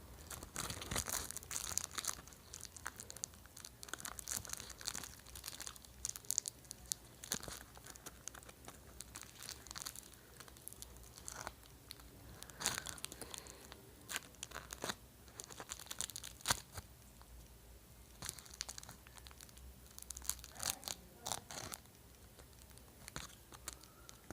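Plastic food packaging being crumpled and crushed by hand, giving irregular crinkling and crunching crackles.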